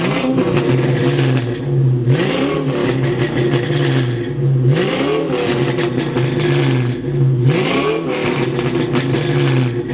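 Car engine revving hard and held at high revs, with its pitch sweeping up about every two and a half seconds.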